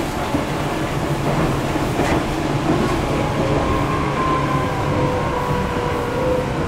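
Running sound of a Seibu 4000 series electric train heard inside a motor car: a steady rumble of wheels on rail and running gear at speed. A faint thin whine joins about halfway through.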